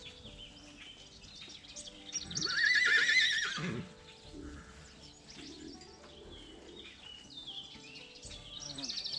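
A horse whinnies once, a quavering call about a second and a half long, roughly two seconds in, with small birds chirping faintly around it.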